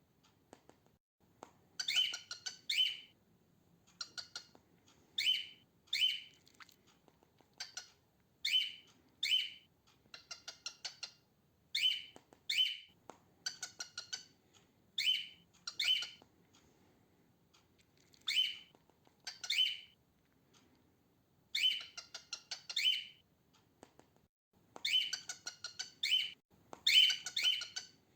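Female cockatiel calling: short, harsh chirped calls, mostly in pairs, repeated every two to three seconds, with quicker runs of softer stuttering notes between some of them. These are calls, not a whistled song.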